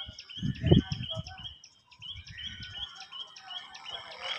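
A small bird chirps repeatedly, a short high call about three or four times a second, with a brief pause near the middle. Low rumbling bumps on the microphone come in the first second and a half.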